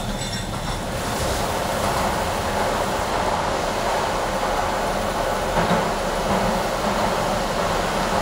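Docklands Light Railway train running into a tunnel, heard from inside the car: a steady rolling rumble and rush of wheels on rail that grows fuller about a second in as the train enters the tunnel. A faint wheel squeal dies away at the start.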